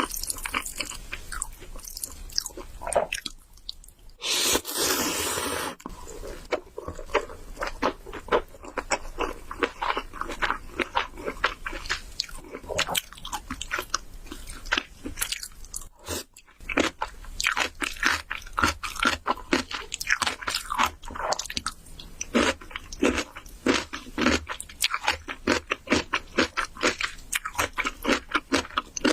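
Close-miked mukbang eating: a person chewing and crunching food, with rapid wet clicks and smacks. About four seconds in there is a longer rushing, hissing noise lasting over a second.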